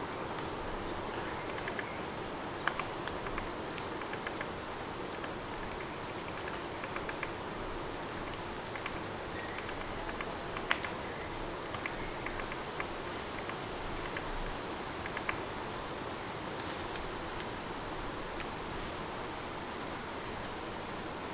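Steady rain ambience with small birds chirping in short high calls every second or two, and a few sharp ticks, one standing out about eleven seconds in.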